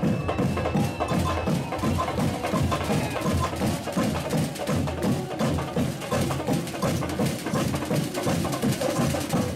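Batucada samba drum ensemble playing a fast, driving rhythm: a steady pulse of deep drum strokes under dense, clicking higher percussion.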